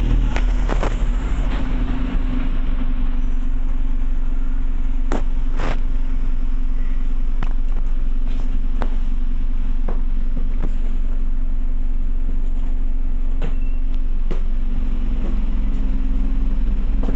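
Scania OmniCity single-decker bus's diesel engine running with a steady hum and deep rumble, heard from inside the passenger saloon, with a few short clicks and rattles scattered through.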